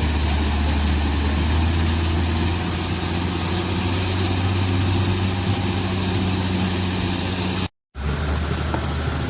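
Heavy earthmoving machine's diesel engine running steadily with a deep, even hum. The sound cuts out abruptly for a split second near the end, then resumes.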